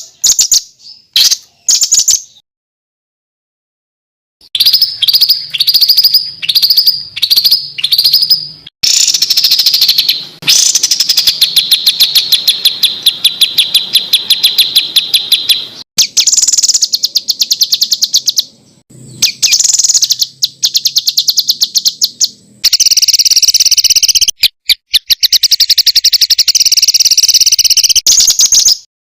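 Songbird song built from rapid-fire rattling trills of sharp, high repeated notes, the harsh 'tembakan' phrases used in masteran training recordings. It comes in several spliced segments with abrupt cuts. There is a silent gap a few seconds in, then a series of short repeated calls, long fast trills, and a dense trill near the end that stops suddenly.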